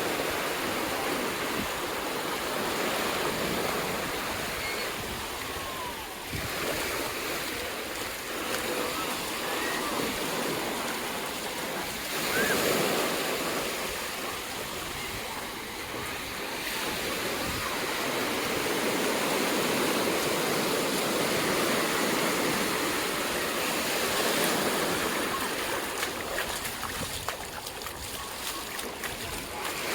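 Ocean waves breaking and washing up the beach, a continuous surf noise that swells and eases with each set.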